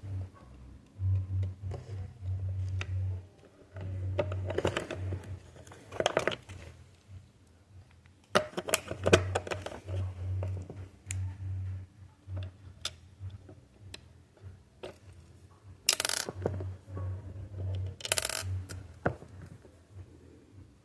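Small hard clicks, taps and short scrapes of an open cassette shell and its parts being handled and fitted back together, over a low hum that comes and goes.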